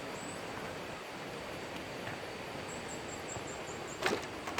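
Steady, even rush of water. High thin chirps come over it, a quick run of about seven in the second half, and a sharp knock sounds just before the end.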